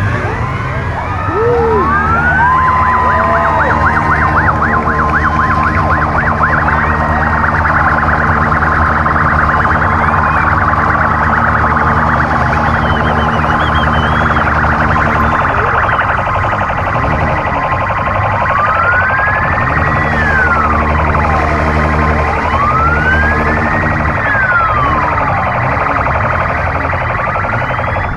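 Several police vehicle sirens sounding together as a convoy passes, with rapid yelping pulses early on and two long rise-and-fall wails near the end, over a steady engine drone.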